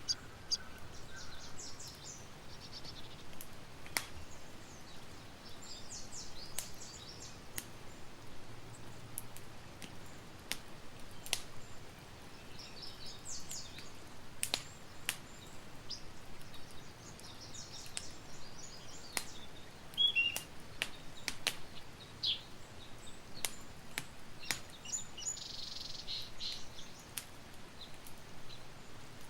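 Campfire crackling, with sharp pops and snaps scattered irregularly. Small birds chirp in short twittering phrases behind it, several times.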